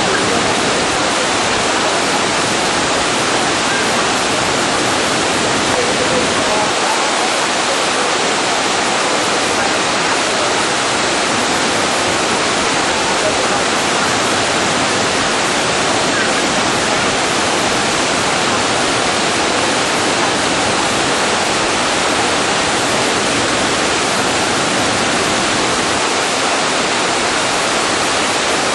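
Steady, loud rush of a waterfall's falling water, an even unbroken wash of noise.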